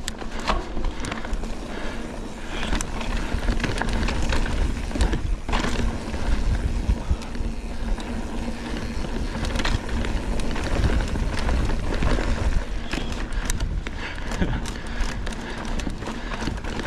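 Mountain bike riding fast along a dirt trail. Tyres run on the dirt while the bike rattles and clicks over bumps, and wind buffets the microphone with a constant low rumble.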